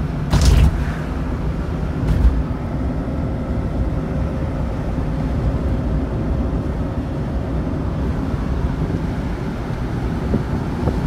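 Fiat Panda 900 i.e. engine running quietly under way, heard from inside the cabin with road and wind noise, just after a rebuild with new piston rings, timing chain and chain tensioner. Short rushes of noise about half a second and two seconds in.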